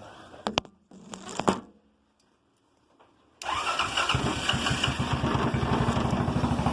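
A couple of short knocks, then about three and a half seconds in a Honda 200cc buggy engine catches abruptly and keeps running with rapid, even firing pulses. It is a cold start at about 15 degrees, with the engine choked by hand.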